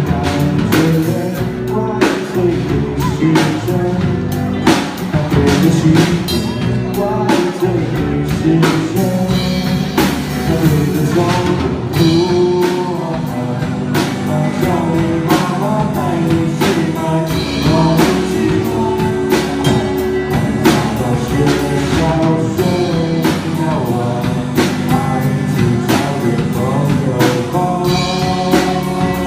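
Rock band playing a song: a drum kit keeps a steady beat under a singing voice and guitar.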